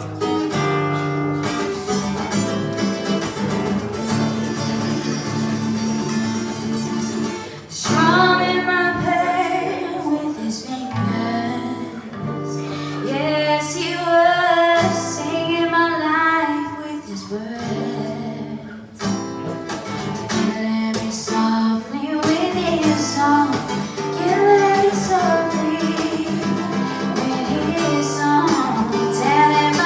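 Live song: an acoustic guitar strummed and picked on its own, then a singer's voice comes in about eight seconds in and carries a melody over the guitar.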